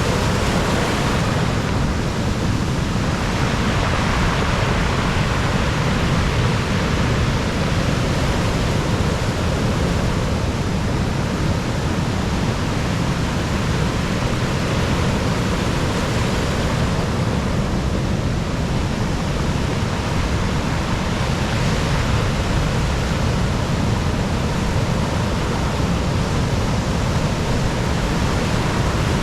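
Stormy sea surf breaking on the shore, swelling and easing every several seconds, with strong wind rumbling on the microphone.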